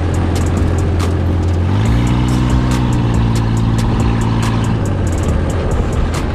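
Off-road buggy's engine running, its note rising about two seconds in and dropping back near five seconds as it speeds up and eases off, with frequent clicks and knocks from the ride.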